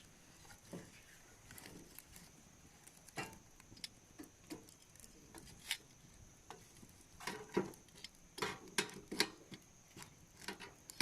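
Wood campfire crackling, with irregular sharp pops and snaps that come thicker and louder from about seven seconds in.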